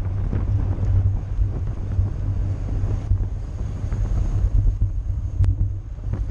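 Wind buffeting the microphone during a fast bicycle ride: a steady, heavy rumbling rush. A single sharp click comes about five and a half seconds in.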